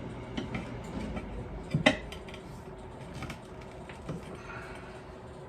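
Metal tools clinking and scraping against the wheel rim while a lawn tractor tire is worked on, a handful of sharp clinks with the loudest pair about two seconds in.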